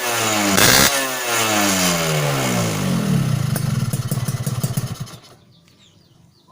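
Suzuki Satria two-stroke motorcycle engine, its exhaust packed with glasswool, blipped once about a second in. The revs then fall back to a pulsing idle, and the engine stops about five seconds in.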